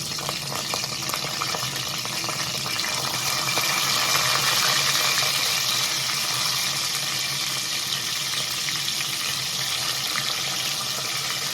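Chicken pieces frying in hot coconut oil in a pan: a steady sizzle with fine crackles, a little louder around the middle.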